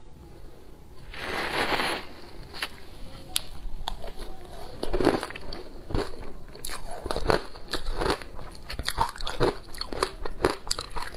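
Ice being bitten and chewed close to the microphone: a brief noisy scrape about a second in, then a run of crisp cracks and crunches that come thicker after about six seconds.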